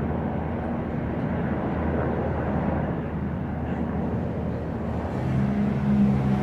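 Aircraft engines droning steadily overhead from a distance, a refuelling aircraft flying with helicopters, heard as an even rushing drone with a low hum. A few steady low tones join near the end.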